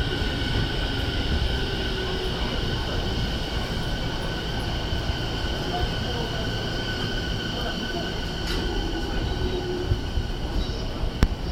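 Train running along the platform: a steady low rumble of wheels on rail with sustained high-pitched wheel squeal, and a couple of sharp clicks near the end.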